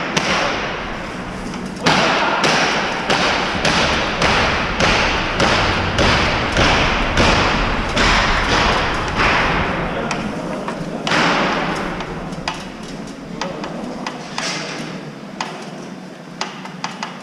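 Mini excavator at work: a run of heavy knocks about once a second, each ringing briefly, over the low rumble of the engine. The knocks ease off after about twelve seconds, and the rumble drops away near the end.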